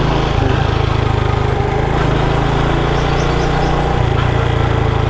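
Motorcycle engine running steadily while the bike is ridden, with a slight change in its note about four seconds in.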